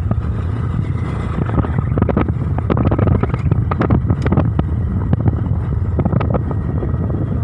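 Loud, steady rushing roar with wind buffeting the microphone and scattered crackles and knocks, thickest in the middle.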